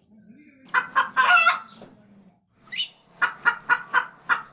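Bird calls: a short pitched call about a second in that runs into a longer held note, then a quick run of about six short clucking calls, roughly five a second, near the end.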